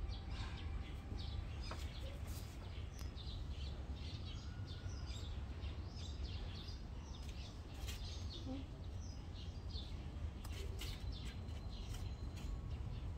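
Small birds chirping in quick, scattered high calls, over a steady low rumble.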